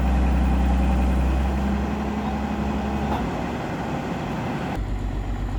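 A heavy machine's diesel engine runs steadily. Its note shifts about three seconds in, and near the end it settles into a lower, evenly pulsing idle.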